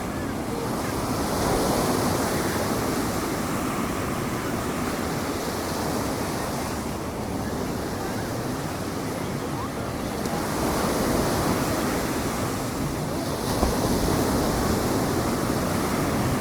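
Ocean surf breaking and washing on the beach, a steady rush that swells as each wave comes in, with wind buffeting the microphone.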